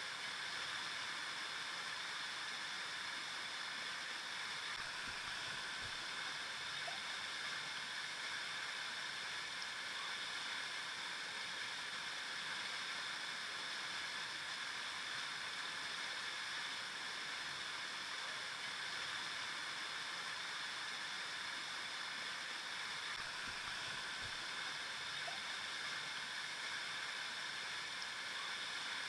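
River water flowing over rocks: a steady rushing and babbling that holds even throughout.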